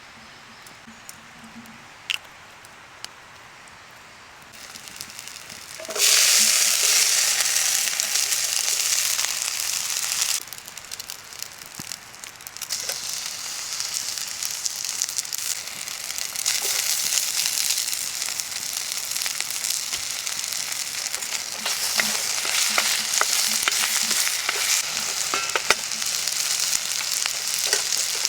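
Steak frying in a hot pan over a campfire: quiet at first, then a sudden loud sizzle about six seconds in, as the meat goes into the fat. It dips briefly about ten seconds in, then sizzles steadily with small pops and spits.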